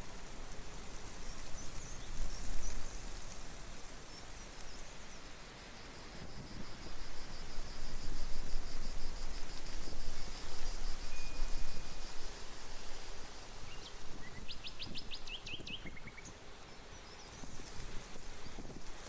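Outdoor ambience: a steady noisy hiss that swells and eases, with a bird giving a quick run of high chirps about fifteen seconds in.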